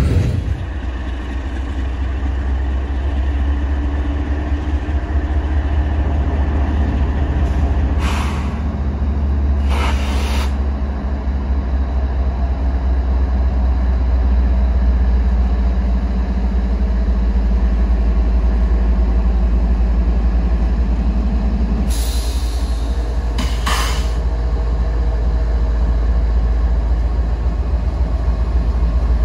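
Freight train rolling by with a steady low rumble, broken by four brief hissing bursts: two about 8 and 10 seconds in, and two more near 22 and 24 seconds.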